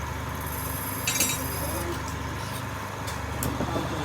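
A steady low hum with faint voices in the background, and a brief metallic clink about a second in.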